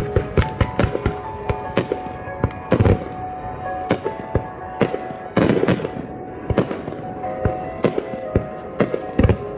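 Fireworks bursting in quick succession, many sharp bangs a second with some louder booms, over music playing throughout.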